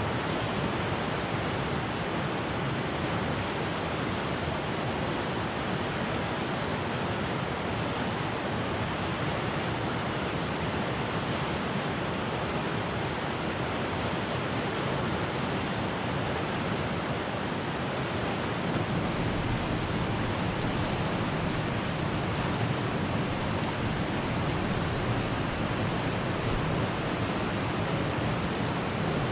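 Steady rushing water of a stream or river, an even noise with no breaks. A deeper rumble joins in about two-thirds of the way through.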